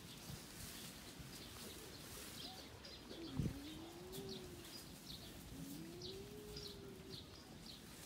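Faint outdoor birdsong: small birds chirping throughout, with two long low calls that rise and then hold, about three and six seconds in. A single thump comes just as the first call begins.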